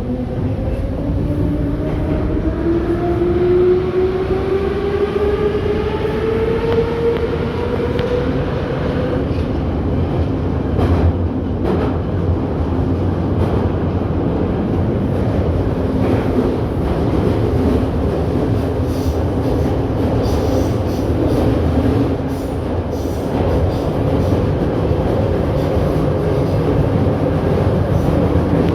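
81-717.6 metro train heard from inside the car as it accelerates out of a station: the traction motors' whine rises steadily in pitch for about nine seconds, then levels off into steady running with a low rumble of wheels on rail and a few knocks.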